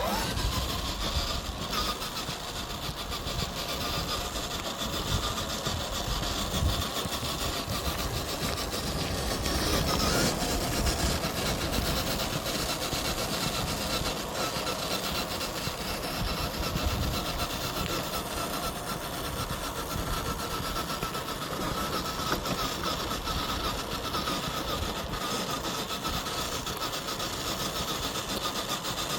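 FMS FJ40 radio-controlled crawler driving over forest ground, its electric motor and gearbox giving a steady whine. Frequent small knocks and crunches come from the tyres and chassis on the trail.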